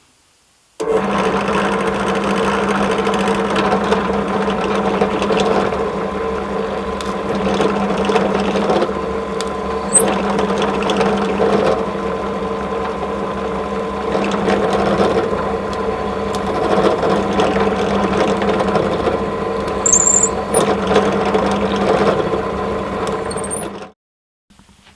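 Electric motor of a power tool running at a steady speed. It is switched on about a second in and off shortly before the end, with a few small clicks over it.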